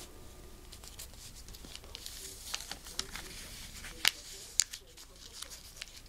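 A square sheet of paper being folded and creased by hand: scattered crisp crinkles and rustles, with two sharper snaps a little past the middle.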